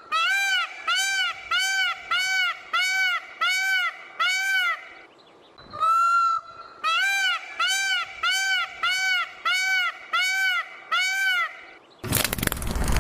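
Peacock calling: two runs of short, loud honking calls, about two a second, each run opening with one longer call. About a second before the end, the calls give way to a loud, steady noisy rumble.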